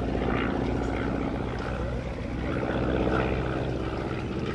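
Desoutter monoplane's 115 hp Cirrus Hermes II four-cylinder engine and propeller droning steadily, swelling slightly about three seconds in.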